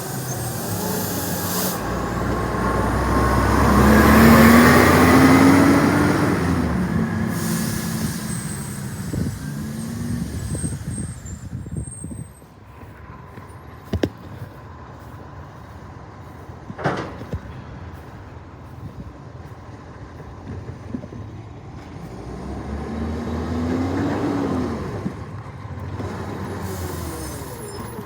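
Recycling garbage truck's diesel engine revving up and dropping back twice, with air brakes hissing around the revs. In the quieter stretch between them there is a single sharp knock.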